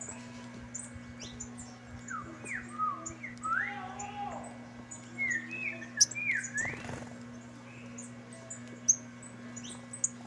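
Saffron finches chirping and calling, many short high notes throughout with a run of louder rising and falling chirps in the middle. A steady low hum runs underneath.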